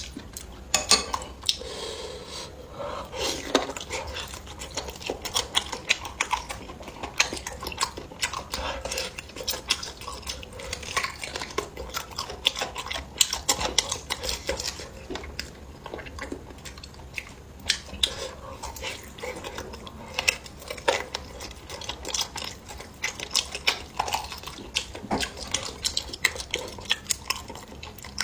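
Eating utensils clinking and scraping against bowls and plates during a meal: many short, irregular clicks and taps.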